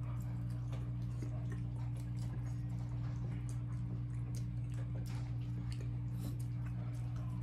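Faint wet chewing, lip smacks and small clicks of two people eating saucy chicken wings by hand, scattered irregularly over a steady low electrical hum.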